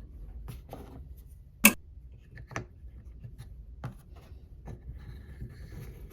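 A few sharp clicks and light knocks, the loudest about a second and a half in, over a low steady hum.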